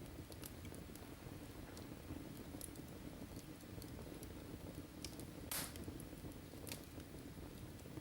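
Wood fire in a fireplace crackling faintly over a low rumble of flames, with scattered small ticks and a louder snap about five and a half seconds in.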